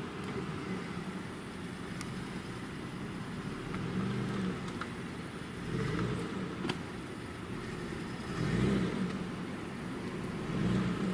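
Off-road SUV engine working under load, its revs swelling and easing several times, with a few sharp clicks and knocks.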